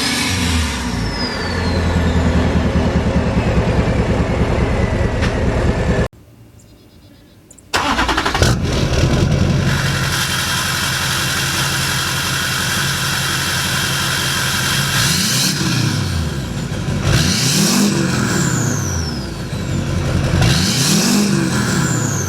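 Duramax turbo-diesel truck engine revving, with a high-pitched turbo whistle that falls in pitch as the revs drop. After a brief break about six seconds in, the whistle holds steady for a while, then three revs near the end each rise and fall with the whistle sliding down after them.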